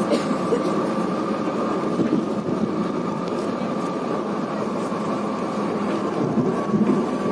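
Running noise of a moving train heard from inside the carriage: a steady rumble with a thin, steady high whine over it.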